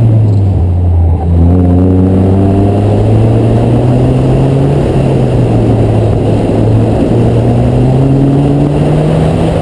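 2007 Mazda MX-5's four-cylinder engine pulling hard, its pitch climbing. The revs drop briefly about a second in, then rise steadily with a couple of small dips.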